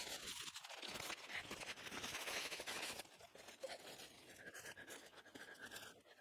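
Rustling, scratching and scraping as a hammock rain fly is handled and set up. The sound is busy for about three seconds, then fainter.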